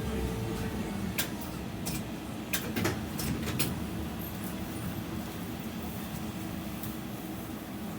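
Inside a BKM 60102 tram: a steady low running hum, with a faint steady tone that stops just under a second in. Several sharp clicks and knocks come in the first few seconds.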